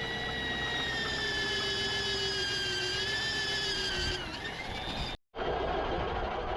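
A power tool running with a steady high whine that sags in pitch about four seconds in. After a sudden cut, a harsher, noisier machining sound follows.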